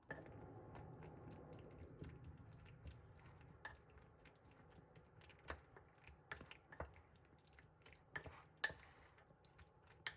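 Faint eating sounds at a table: quiet chewing and scattered soft clicks and taps of utensils and dishes, with the sharpest tap about eight and a half seconds in.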